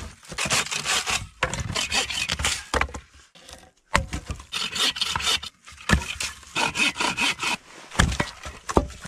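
Repeated rasping strokes in quick runs of a second or two. There are short pauses between the runs, the longest about three seconds in.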